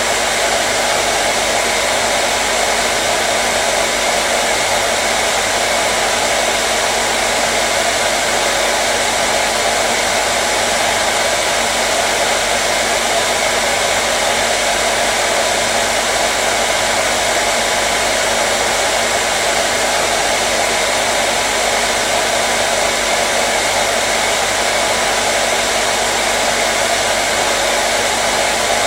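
Hair dryer running continuously at a constant speed: a steady, even rush of air with a faint motor hum, unchanging throughout.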